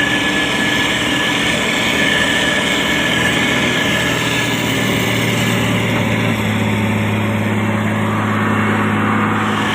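Diesel engine of a SANY STG190C-8S motor grader running steadily under load while spreading gravel, with a second steady tone joining the engine note about six seconds in.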